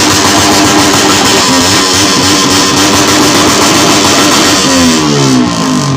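A motorcycle with a loud open muffler being revved hard, held high, then its revs falling away near the end.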